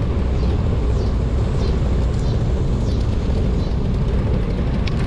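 Steady low rumble of wind buffeting the microphone of a bicycle-mounted camera while riding at speed in a stiff wind, with a few faint high falling chirps in the first few seconds.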